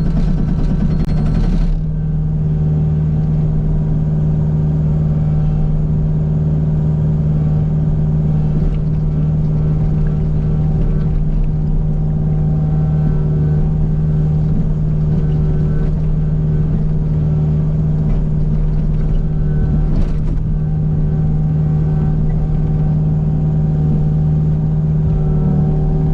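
Kubota U55 mini excavator's diesel engine running steadily with a constant pitched drone. A brief harsh rattle comes in the first second or two, and a short clatter about twenty seconds in.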